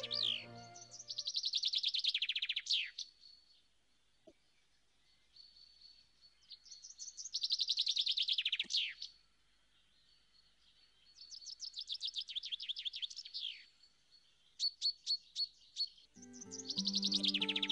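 A songbird singing four phrases of rapid high notes with short pauses between, each phrase about two seconds long and ending in a falling sweep. Background music fades out in the first second and comes back near the end.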